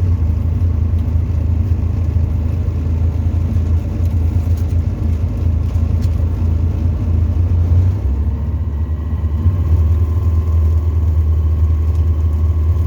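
Tecnam ultralight aircraft's piston engine and propeller running steadily, a loud low drone heard from inside the cockpit. About two-thirds of the way through, the drone's pitch shifts slightly as the engine setting changes.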